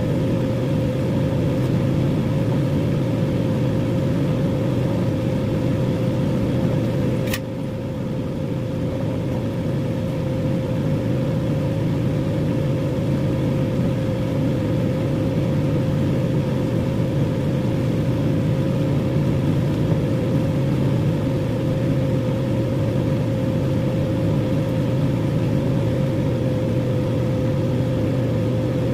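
Microwave oven running with a steady hum, a clear tone sitting over a low drone, and one sharp click about seven seconds in.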